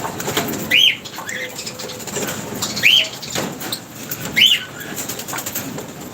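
Small parrots of the kind kept as love birds calling: three loud, short, shrill chirps about every second and a half, with softer chirps between them.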